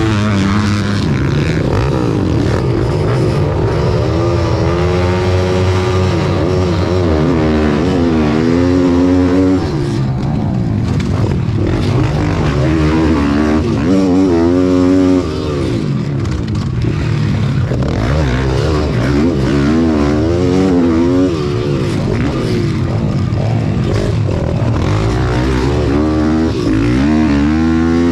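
Small single-cylinder pit bike engine running hard, its pitch climbing and dropping over and over as the throttle is opened and closed.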